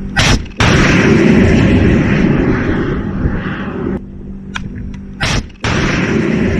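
Two heavy blasts of weapon fire or explosions, about five seconds apart. Each starts with a sharp crack, followed a moment later by a loud boom that rumbles away over a few seconds.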